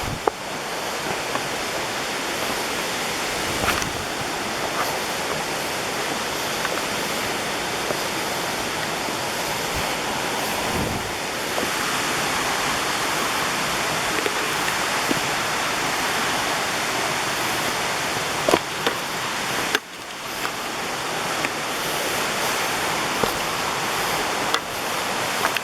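Steady rush of water from a waterfall, with a few sharp clicks over it.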